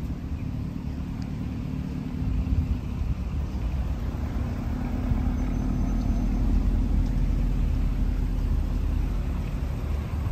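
Lamborghini Urus twin-turbo V8 idling, a steady low rumble that grows louder about two seconds in.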